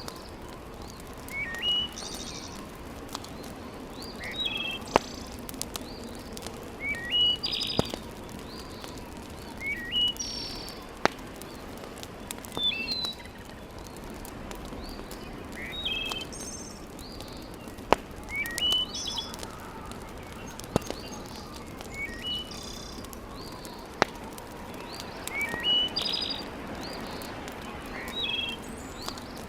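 Birds chirping short, repeated phrases every two to three seconds over a steady low hiss. A handful of sharp single pops from a wood fire in a fireplace cut through now and then and are the loudest sounds.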